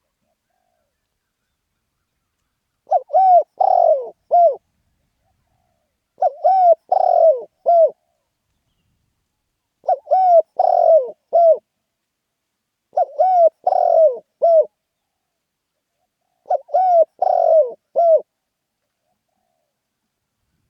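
Spotted dove cooing: five phrases of a few short, pitched coo notes, each phrase about a second and a half long, repeated every three to four seconds with silence between.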